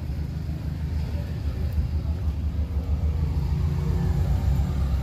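Car engines running with a low, steady rumble that grows a little louder about three seconds in.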